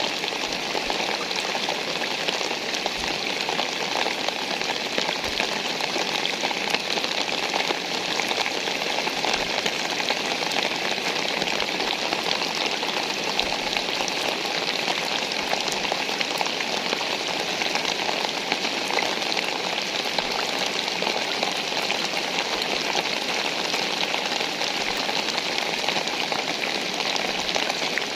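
Steady rain falling: an even hiss of rain with many small drop impacts scattered through it, holding level throughout.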